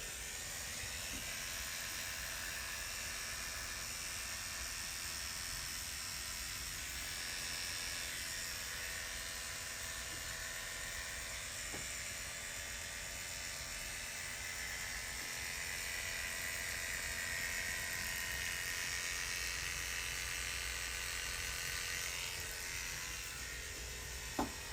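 Electric hair clippers running steadily as they cut hair close on the sides and back of the scalp.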